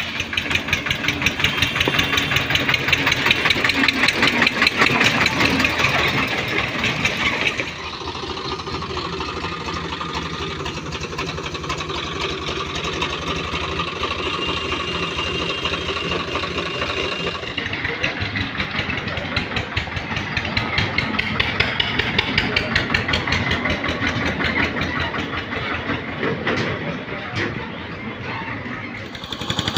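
Eicher 242 tractor's diesel engine running with a rapid, even firing beat. It drops quieter about eight seconds in and gets louder again after about eighteen seconds.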